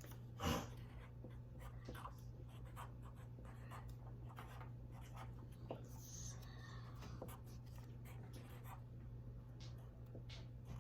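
Faint, irregular scratching strokes of drawing on paper, with one louder brief knock about half a second in and a steady low hum underneath.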